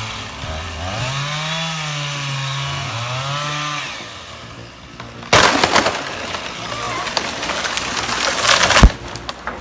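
Chainsaw running under load, its pitch rising and falling. About five seconds in, a loud crashing, cracking noise begins and ends in one sharp knock near the end.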